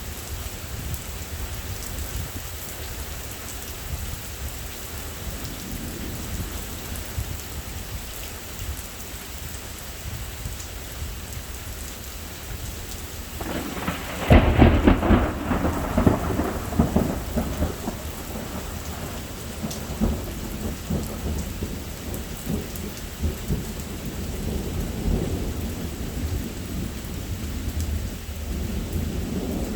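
Steady rain with a close thunderclap about halfway through: a sudden loud crack that rolls off into rumbling over several seconds. Further low rumbles of thunder follow later.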